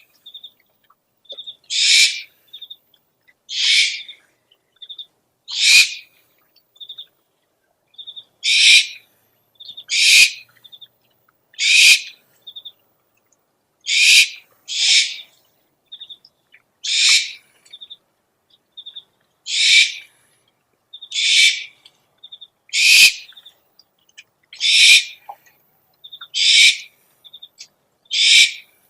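Owl calls: a harsh, hissing screech repeated about every one and a half to two seconds, with soft short high chirps between the screeches.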